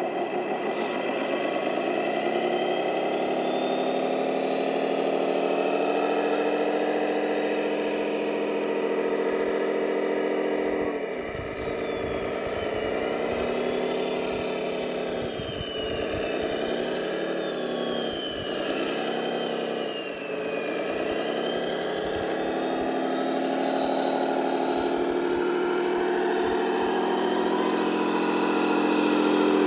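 Simulated V8 truck engine sound from a radio-controlled scale model's sound module, running steadily, with several dips and rises in pitch in the middle as the throttle changes. A thin high whine glides up and down over it.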